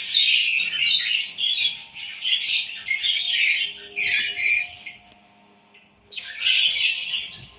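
A flock of aviary birds chirping and squawking in rapid, overlapping high-pitched calls. They break off for about a second two-thirds of the way in, then start again.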